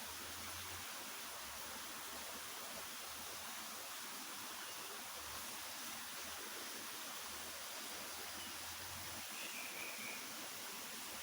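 Steady rushing of running water, like a stream or small waterfall, with one short faint bird call near the end.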